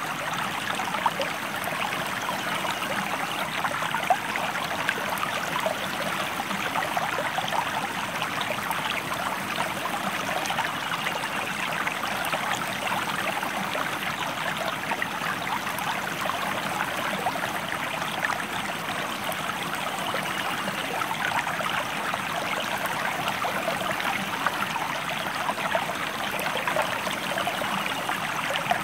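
River or stream water flowing steadily, an even rushing and babbling that carries on without pause.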